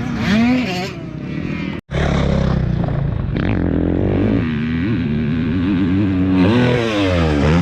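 Motocross dirt bike engines revving, with an abrupt cut about two seconds in. After it, a bike engine runs steadily and its pitch falls away near the end.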